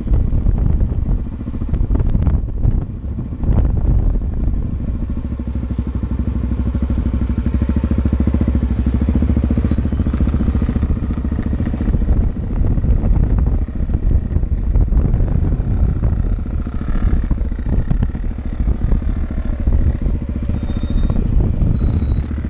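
Big twin-cylinder adventure motorcycle engine running steadily, heard close up, with some rattle from the rough ground.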